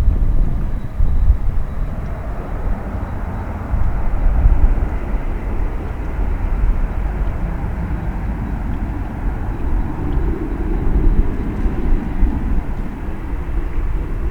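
Jet airliner taking off, engines at takeoff power: a loud, deep rumble that continues throughout.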